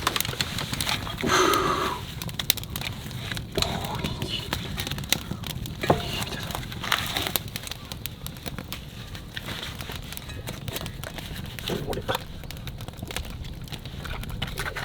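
Wood campfire crackling, with dense irregular pops and one sharper snap about six seconds in.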